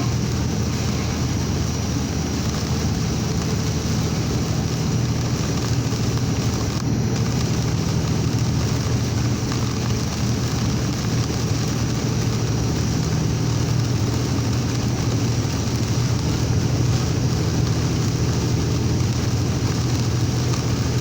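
Steady drone of a vehicle driving at highway speed, heard from inside the cab, with heavy rain and strong wind beating on it.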